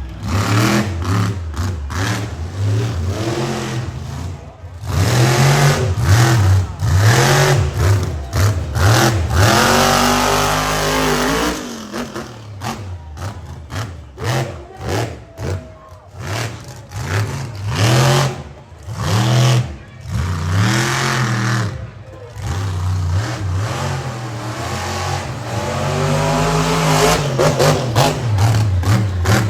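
Monster truck engine revving hard, its pitch climbing and falling again and again as the throttle is blipped. It holds one long pull of a few seconds before cutting off sharply about midway.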